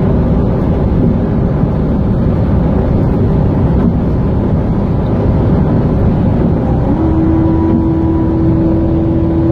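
Chevrolet Corvette C7 Z06's supercharged V8 running at highway speed, with steady engine and road noise. A steady hum comes in about seven seconds in and holds.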